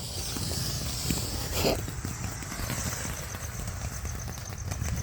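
Small cone fountain firework hissing as it sprays sparks, the hiss fading over the first couple of seconds. Later a steady high insect chirping comes in.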